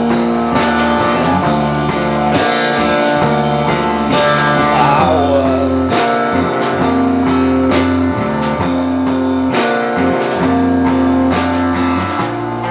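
Live band playing an instrumental passage of a rock song: electric guitar, bass and drum kit. A lead line wavers and bends in pitch about five seconds in.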